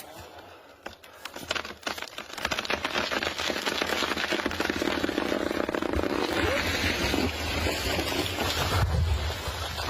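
A felled tree coming down: a dense crackling of snapping branches and wood builds a couple of seconds in, joined later by a low heavy rumble as the trunk comes to the ground.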